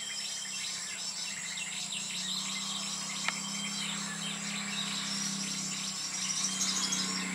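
Small birds giving many short, high chirps over a steady high-pitched insect drone, with a low steady hum beneath and one sharp click about three seconds in.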